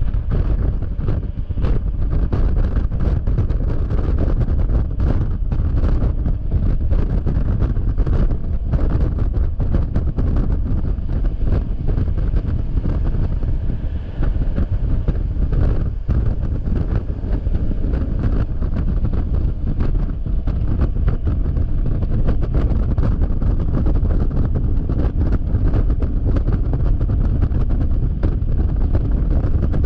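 Steady wind buffeting on the microphone of a camera riding on a Yamaha XMAX scooter at freeway speed, with the scooter's running noise underneath. Frequent sharp taps run through it.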